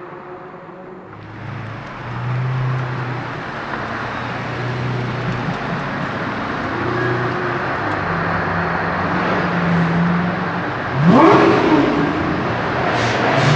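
Lamborghini Murciélago V12 with a Milltek exhaust, running and growing louder about a second in. About eleven seconds in it revs up sharply, its pitch climbing fast, which is the loudest moment.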